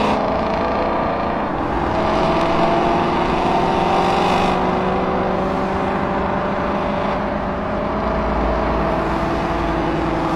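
Several Ford Mustang Shelby GT350s' flat-plane-crank V8s cruising together at highway speed, their overlapping engine notes drifting slowly up and down in pitch over steady road noise.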